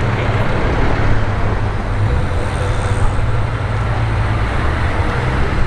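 City street traffic: a steady low engine rumble with road noise and no single standout event.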